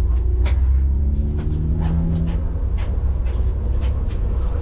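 A car engine running steadily at idle with a deep rumble, one of its tones rising slightly for a moment about a second in. Light clicks and knocks are scattered over it.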